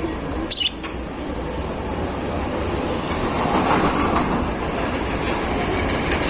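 Caged budgerigars chattering and warbling over a steady low rumble, with a short sharp call or click about half a second in.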